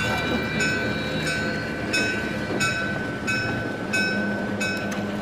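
Battery-powered toy train running on plastic track: a steady high motor whine with a regular click about every two-thirds of a second.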